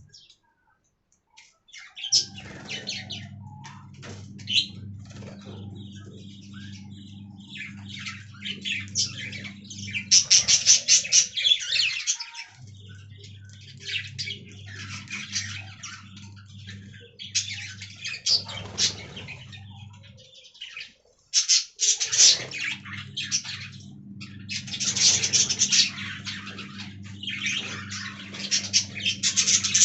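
Budgerigars chirping and chattering in quick, busy bursts, over a steady low hum. The sound drops out briefly near the start and again about two-thirds of the way through.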